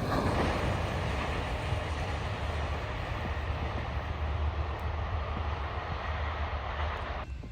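Freight train rolling past: a steady rumble of wheels and cars on the rail that slowly fades, then cuts off suddenly near the end.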